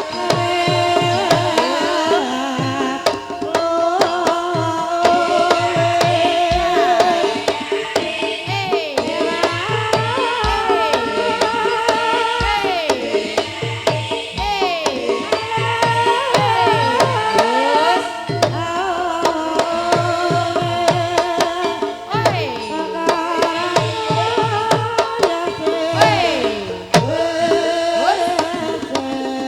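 Banyumasan gamelan music accompanying an ebeg dance: kendang hand-drum strokes in a steady rhythm under ringing metallophone notes and a wavering, gliding melody line.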